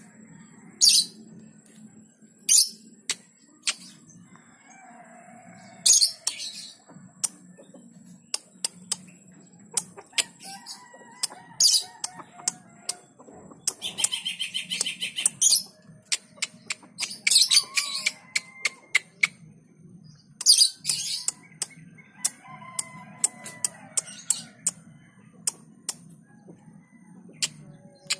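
Birds calling, with many sharp clicks, short rustling bursts and a brief trill in the middle.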